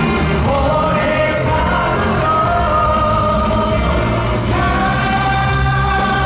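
Live concert music: a male singer holding long sung notes over a full band with a steady low end and occasional cymbal crashes.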